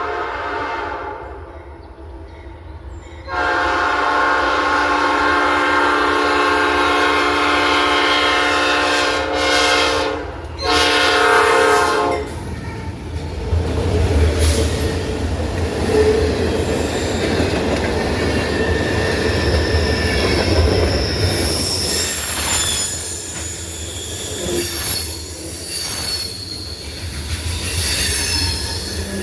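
Freight locomotive horn sounding a long multi-tone blast and then a shorter one, followed by the train passing with a low engine rumble and high-pitched wheel flange squeal.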